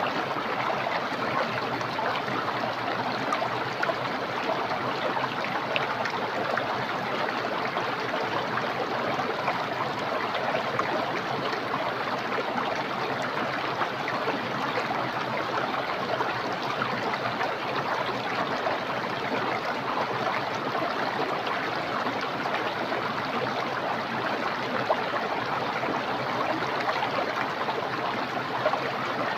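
A small, clear, fast-flowing stream running over stones: a steady rush of water with fine splashing and gurgling.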